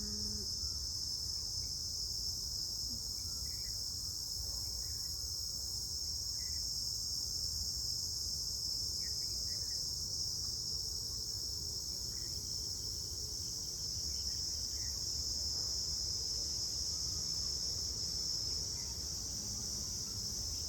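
Steady, high-pitched chorus of insects, an unbroken drone.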